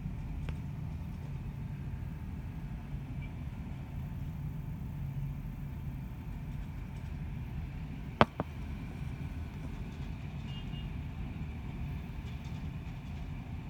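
Steady low rumble of distant city traffic, with a sharp click and then a fainter second one a little past halfway.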